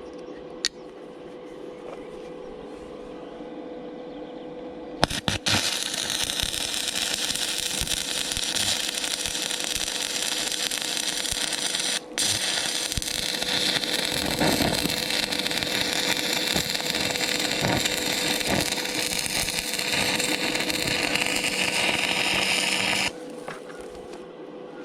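Electric arc welding steel flat bar onto a mini digger's thumb attachment: the arc strikes with a few stutters about five seconds in, crackles steadily, breaks off briefly midway, then runs again until it stops abruptly near the end. A steady hum runs underneath.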